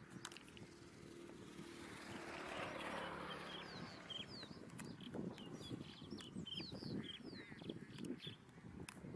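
Birds calling with many short, sharp, falling chirps from about four seconds in. Earlier, a broad rush of noise swells and fades.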